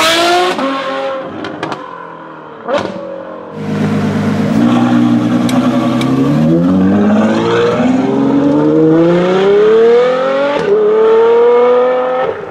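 Novitec-tuned Ferrari F12 Berlinetta V12 under hard acceleration. One rev dies away early, with a single sharp crack about three seconds in. The engine then pulls up through the gears, its pitch climbing in long sweeps with a break at a shift near the end.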